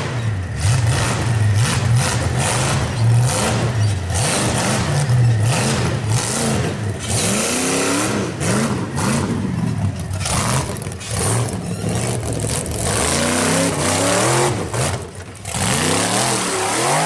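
Off-road rock-racing truck's engine revving up and down in repeated throttle bursts as it works through a rock course.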